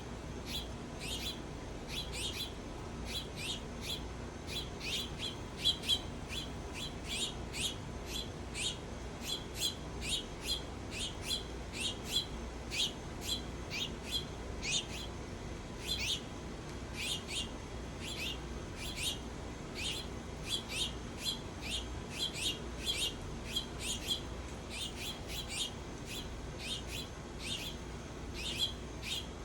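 A small bird chirping over and over, short sharp chips at about two a second.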